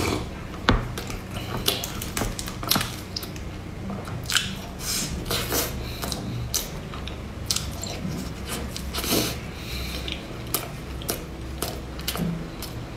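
Close-miked eating sounds: a sip from a bowl at the start, then bites into a cream-filled spiral pastry horn and wet chewing, heard as irregular soft clicks and smacks.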